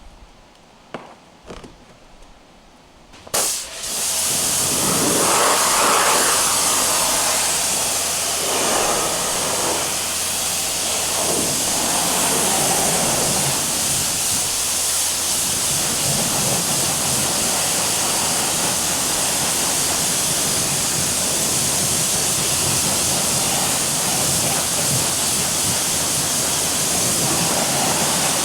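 A few light clicks, then about three seconds in a pressure washer starts: a steady motor hum under the loud hiss of the water spray, which runs on with small changes as the spray moves over the car.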